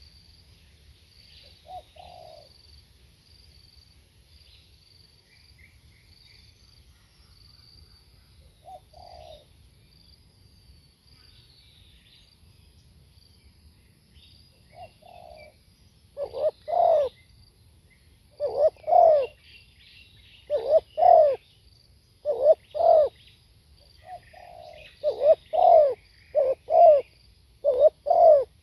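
Spotted dove cooing: a few soft, widely spaced coos, then from about halfway on loud coo phrases repeated every second or two. Small birds chirp faintly and high in the background.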